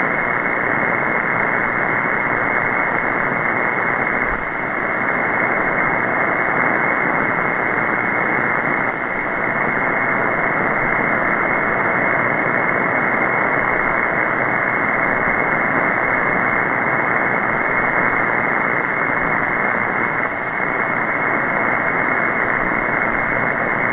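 Shortwave single-sideband receiver hiss: steady band noise from an SDRplay RSPduo tuned to 14.325 MHz upper sideband, with no station coming through, dipping briefly a few times. Band conditions are poor from a major geomagnetic storm.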